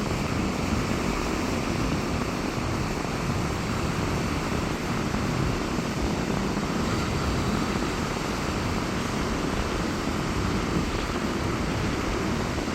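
Sea waves breaking on a beach in strong wind, a steady rushing noise with a heavy wind rumble on the microphone.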